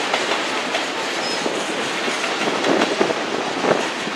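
Freight train cars (covered hoppers and a boxcar) rolling past: a steady rumble of steel wheels on rail with irregular clicking and clacking over the rail joints.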